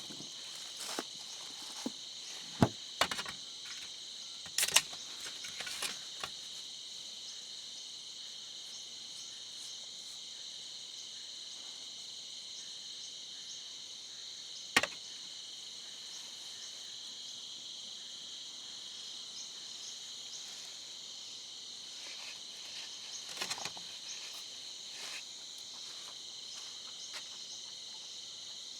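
A steady, high-pitched chorus of crickets chirring. A few sharp knocks cut through it: several in the first five seconds, one about halfway through, and a softer cluster later on.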